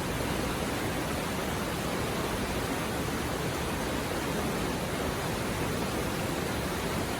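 A mountain river stream babbling over rocks: a steady, even rush of flowing water.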